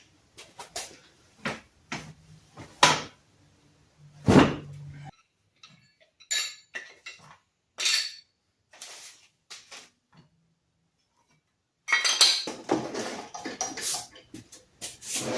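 A series of sharp metallic clinks, clanks and knocks, like metal parts and tools being handled and set down, with a low hum under them for a few seconds that cuts off suddenly. A dense run of clattering comes near the end.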